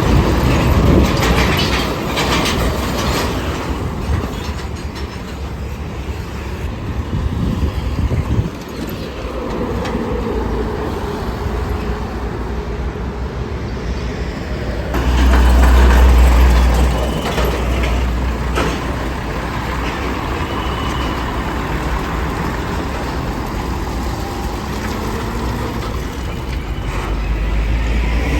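Roadside traffic passing close by, a steady rumble of engines and tyres. About halfway through, a heavy vehicle goes past with a louder low rumble that swells and fades over a couple of seconds.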